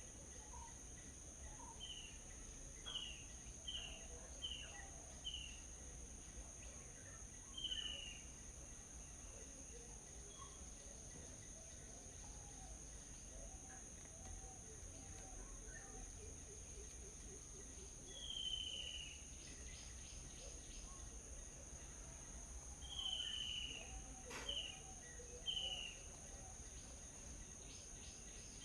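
Small birds giving short, falling chirps, singly and in quick runs, over a steady high-pitched insect drone. A single sharp click about 24 seconds in.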